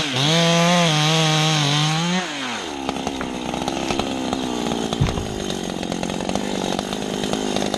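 Chainsaw running at high revs with its pitch wavering, then winding down about two seconds in. A lower engine drone carries on after that, with a single sharp knock about five seconds in.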